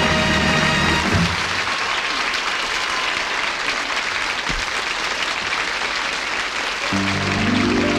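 Studio audience applauding as a song ends: the band's last held chord stops about a second in, and music starts up again near the end.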